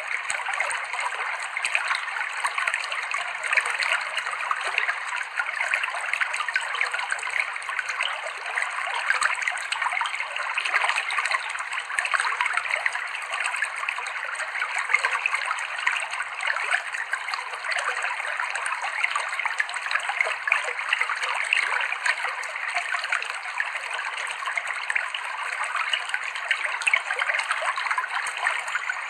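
River water flowing over rocks, a steady, unbroken rush of small splashes.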